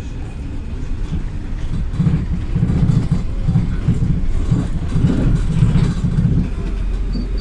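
Cabin noise of a PAZ 320414-04 city bus on the move: its YaMZ-53423 compressed-natural-gas engine running together with road and body noise. The low drone gets louder and uneven from about two seconds in, easing a little near the end.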